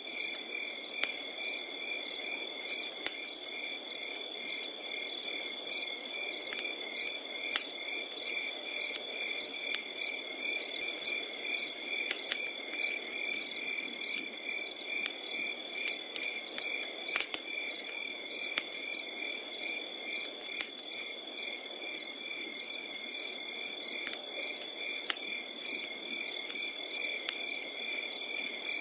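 Crickets calling in a steady chorus, one continuous high trill and a pulsed chirping at about two pulses a second, over a wood fire crackling with scattered sharp pops and a low hiss.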